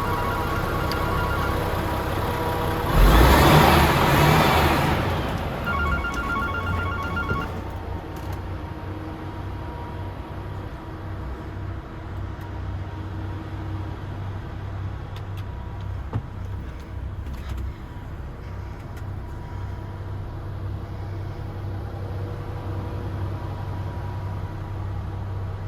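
DAF XF106 truck's Paccar 460 bhp Euro 6 diesel engine idling steadily. About three seconds in there is a loud burst of hiss lasting a couple of seconds. A rapid electronic beeping sounds briefly near the start and again just after the hiss.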